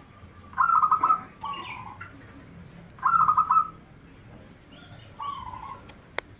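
Zebra dove (perkutut) cooing: two loud phrases of quick stuttering notes, each trailing into a lower coo, then a softer lower coo near the end. A single sharp click comes just before the end.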